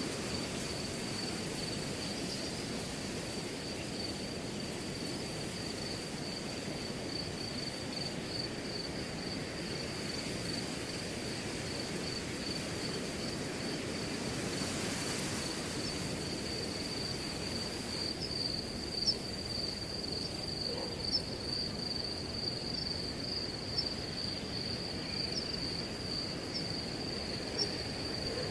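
Crickets trilling steadily in one high, slightly pulsing tone over wind rustling through grass. A few short ticks sound in the second half.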